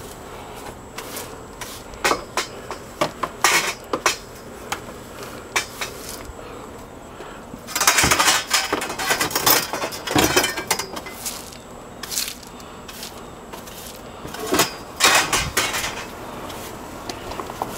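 Clattering and clinking of hard objects being handled, in three bursts of sharp knocks about 2, 8 and 15 seconds in.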